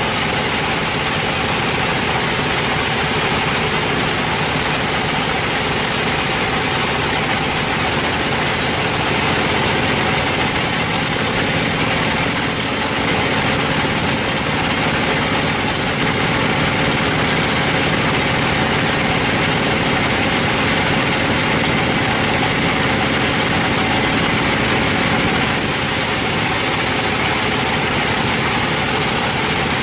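Sawmill machinery running: a steady engine-like drone with a constant hiss over it, unchanging in level.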